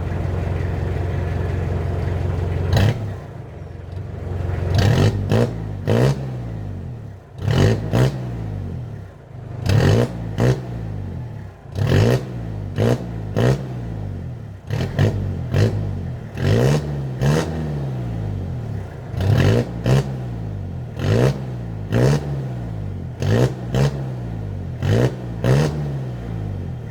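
Mitsubishi L200 pickup's exhaust through a Borla Pro XS muffler with the tip removed: it idles steadily for about three seconds, then the engine is revved in short blips over and over, about one a second, each rising and falling in pitch.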